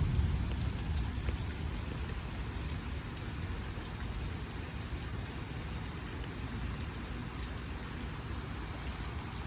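Rain falling steadily, an even hiss with a low rumble underneath, a little louder in the first second.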